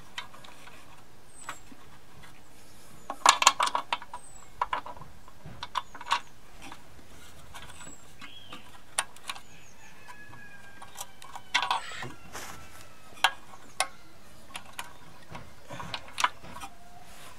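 Metal clinks, taps and knocks of hand tools and mower parts being handled and fitted, in irregular single strikes with two busier clatters, about three seconds in and again near twelve seconds.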